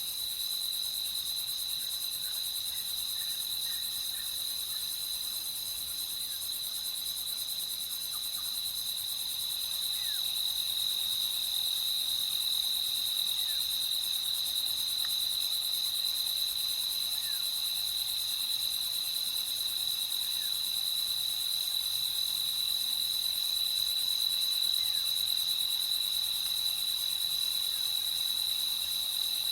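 Crickets chirping in a steady, continuous high trill, with a few faint short calls from other creatures scattered through it.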